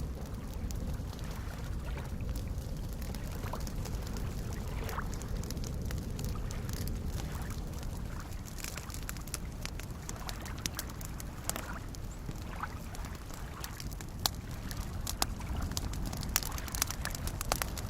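Campfire crackling with scattered sharp pops over the steady soft wash of small lake waves lapping. The pops grow louder and more frequent in the second half.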